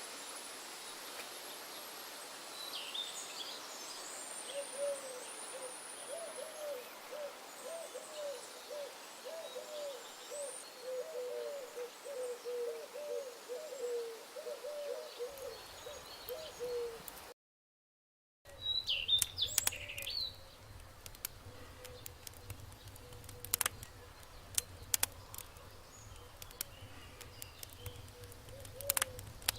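An owl hooting in a long series of short, rapid notes, with faint high bird chirps above it. After a brief break, scattered sharp clicks sound over a low hum, and these clicks are the loudest thing in the stretch.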